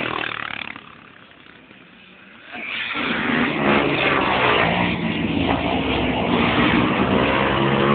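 Racing motorcycles on a track. The engine sound fades into a brief lull, then about two and a half seconds in a loud, high-revving engine comes in suddenly and stays loud.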